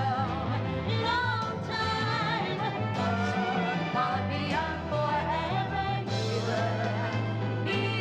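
Live pop-soul music from a band with singing, a steady bass line under wavering melody lines.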